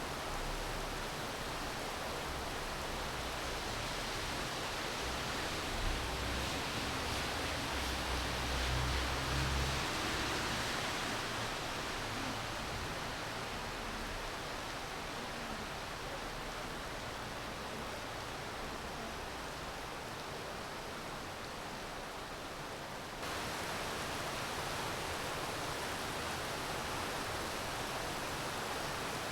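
Steady rainfall, an even hiss with no break. A low rumble sits underneath for a few seconds about a quarter of the way in, and the level steps up abruptly near the end, like a splice in the recording.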